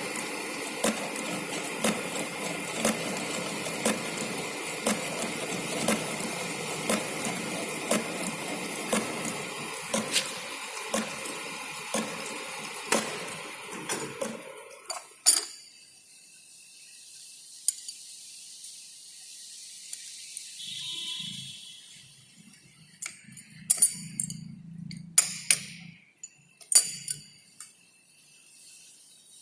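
Lathe running through a facing cut on a steel rod, a steady machining noise with a sharp tick about once a second. It stops about halfway through. Then come a few metallic clinks and knocks as tools and the workpiece are handled.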